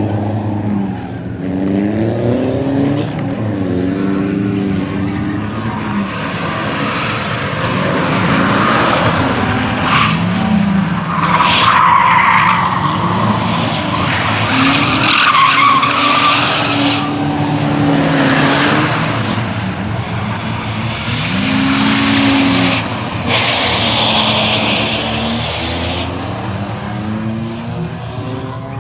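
Rally car engine revving hard, its pitch climbing and dropping again and again through gear changes, with tyres skidding and squealing in several bursts.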